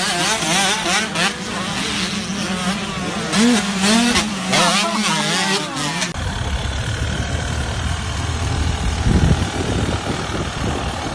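Dirt bike engine running with its pitch rising and falling as the throttle is worked. About six seconds in, the sound switches abruptly to a lower, rougher engine rumble.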